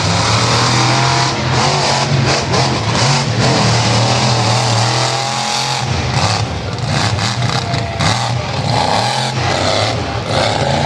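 Monster truck engine running loud under throttle, revving up and down, with a break in its steady note about six seconds in.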